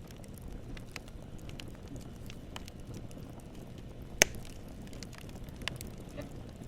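Campfire burning: a steady low rumble of flames with scattered crackles of burning wood, and one sharp loud pop a little past four seconds in, followed by a smaller pop.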